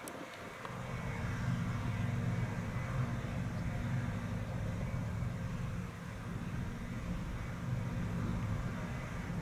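Fendt 6275 L combine harvester running under load, a steady low engine drone that grows louder about a second in.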